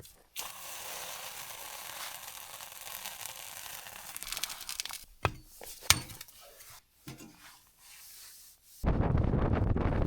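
A steady hissing crackle, then two sharp snaps about five and six seconds in. Near the end a sudden loud rush of wind on the microphone.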